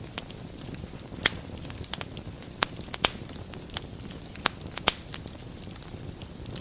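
Wood fire burning in a fireplace: a steady low rush of flames with irregular sharp crackles and pops, the loudest a little over a second in and a cluster near the middle.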